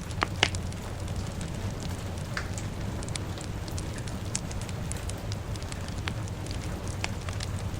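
Fire crackling with scattered pops and two louder snaps near the start, over a steady low rumble and hiss of rain.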